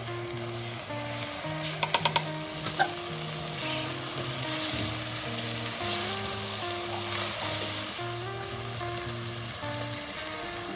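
Spiced onion, tomato and potato base for chicken biriyani sizzling in hot oil in a cooking pot, the sizzle swelling for a couple of seconds past the middle. About two seconds in, four quick knocks, like a spatula against the pot, with a couple of single knocks after. Soft background music runs underneath.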